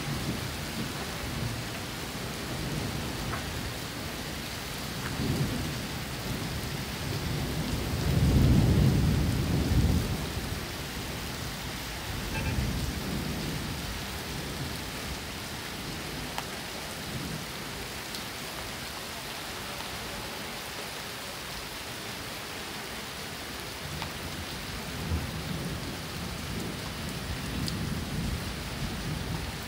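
Heavy rain pouring down in a steady hiss, with low rumbling swells that come and go, the strongest about eight to ten seconds in.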